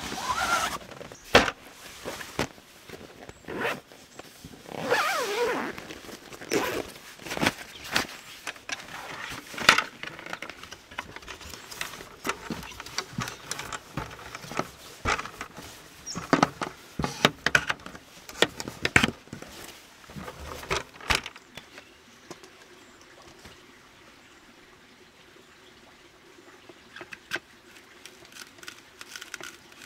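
Irregular knocks, clicks and scraping of objects being handled, with a few short squeaking slides in pitch early on; it turns quieter about two-thirds through, leaving a faint steady hum and occasional clicks.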